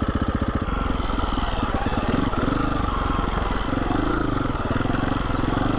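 Husqvarna 350 FE single-cylinder four-stroke dirt bike engine running while being ridden, its revs rising and falling. The engine note changes about 0.7 s in.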